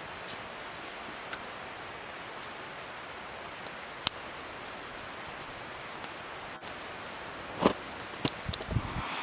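Wood fire crackling: a steady hiss with scattered sharp pops, one loud pop about four seconds in and a quick cluster of pops near the end.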